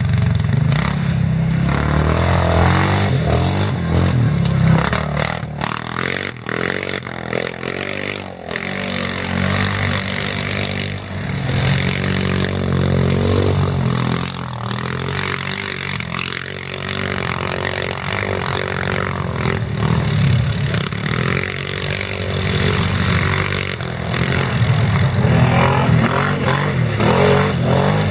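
Racing ATV engines revving up and down as quad bikes pass, the pitch rising and falling continuously throughout.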